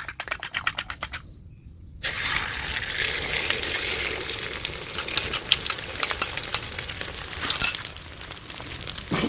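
Beaten eggs for a Thai omelette sizzling and crackling loudly in hot oil, the hiss setting in suddenly about two seconds in and thick with sharp pops. Before it comes a quick run of clicks, then a short lull.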